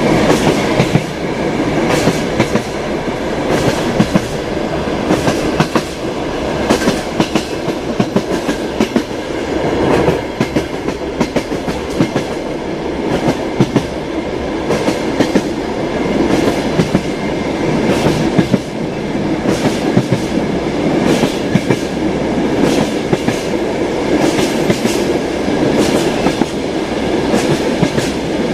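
Ride noise inside the passenger car of an ED9M electric commuter train under way: a steady rumble of wheels on the track with frequent irregular clacks and knocks.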